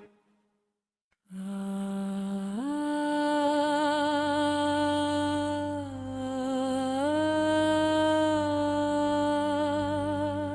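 About a second of silence, then a wordless hummed vocal line with vibrato over a low drone in AI-generated ambient music. It holds long notes, steps up, dips briefly and comes back up.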